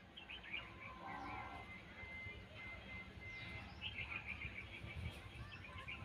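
Small birds chirping in quick high twitters, with a thin steady whistled note held for about a second near the middle, over a faint low rumble.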